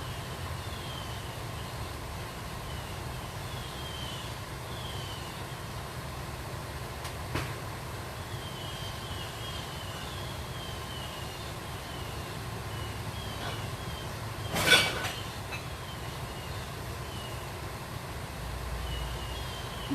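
Garbage truck engine running with a steady low rumble, with a sharp metallic clank about fifteen seconds in and a smaller knock about halfway through. Short high chirps repeat over it.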